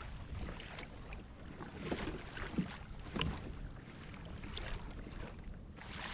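Water lapping and sloshing against a kayak hull, with a few light knocks about two and a half and three seconds in.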